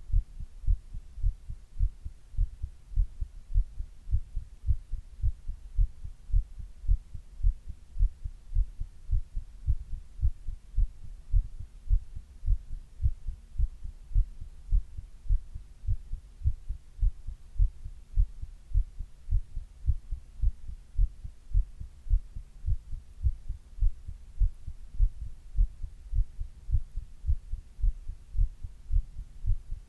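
A person's own heartbeat picked up close at the chest: steady, regular low lub-dub thumps, with a faint steady hum underneath.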